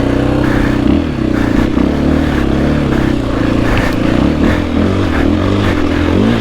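Single-cylinder four-stroke engine of a KTM 500 EXC-F dirt bike ridden hard, its revs rising and falling repeatedly with the throttle.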